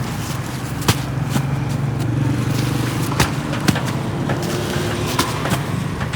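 Machinery running with a steady low hum, with several sharp knocks at uneven intervals over it.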